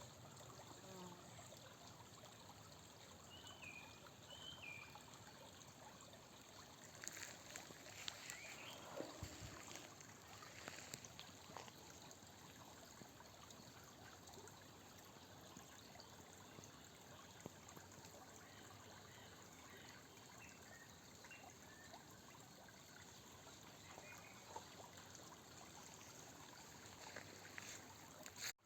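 Faint trickling of shallow water, with scattered small splashes and clicks.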